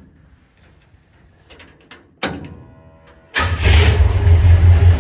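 1948 Chevrolet COE truck's engine being started: the starter cranks for about a second, then the engine catches about three and a half seconds in and runs loudly with a low, pulsing exhaust note.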